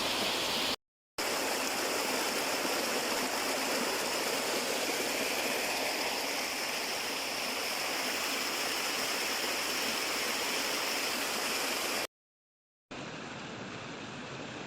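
Steady rushing of flowing water, like a mountain stream. It is cut by a brief silence just under a second in, and again near the end, where it comes back quieter and duller.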